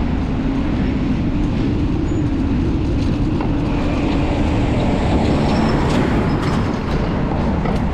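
Steady low rumble of wind and road noise while riding a fixed-gear bike through city traffic.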